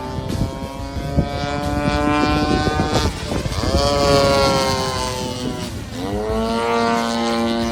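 A radio-controlled model airplane's motor and propeller running hard. The pitch drops sharply about three seconds in and climbs back, then dips and rises again about six seconds in, as the throttle or the plane's passes change.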